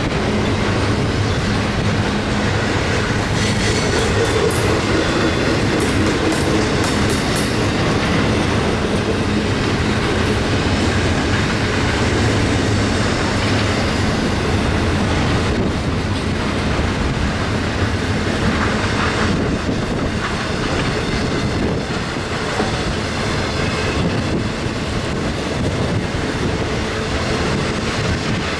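Union Pacific train's cars rolling past close by: a steady loud noise of steel wheels on rail with occasional clicks over the joints, and a faint high wheel squeal about halfway through.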